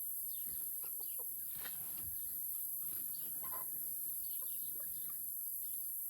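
Chickens clucking softly now and then, short scattered clucks throughout, over a steady high-pitched hiss.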